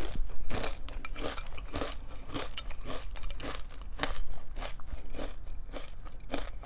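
A person chewing a mouthful of crunchy cereal flakes and clusters close to the microphone, with a steady run of crunches about three a second.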